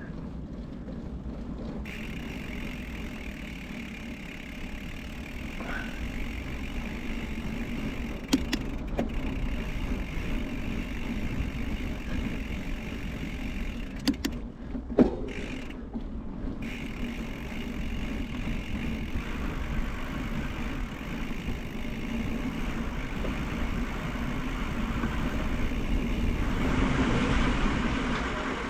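Steady low rumble of wind and road noise on the microphone while riding a bicycle on pavement, with a couple of sharp clicks about a third and halfway through and a swell in loudness near the end.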